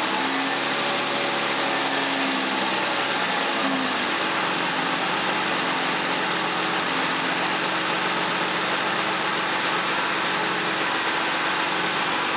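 Jaguar V12 engine idling just after a warm restart, following a minute switched off. Its idle wavers for the first few seconds, then settles and runs steady. The engine has a hard-starting problem that the owner suspects is flooding from a leaking injector.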